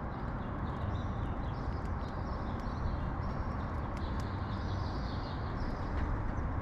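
Sparrows chirping busily over a steady low rumble of city traffic.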